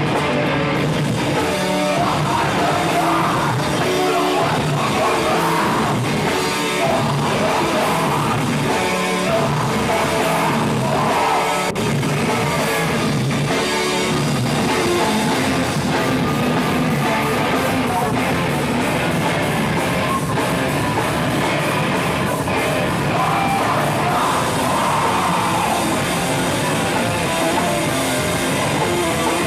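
A live rock band playing loud and steady, with electric guitar and drums and some singing.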